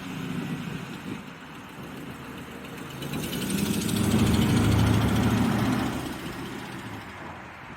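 Ford F-250 Super Duty's 5.4-litre V8 running, growing louder about three seconds in and easing back again near the end.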